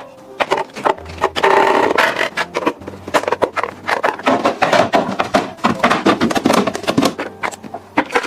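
Quick taps, clicks and knocks of food packages and containers being handled and packed into a refrigerator, with a burst of packaging rustle about a second and a half in.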